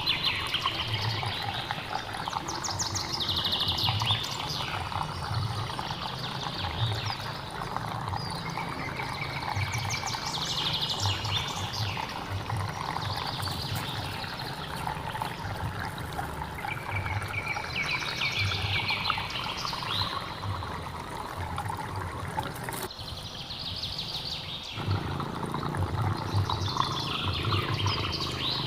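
Running water in a steady rush, with birds chirping in repeated trills over it. The rush drops away for about two seconds near the end, then returns.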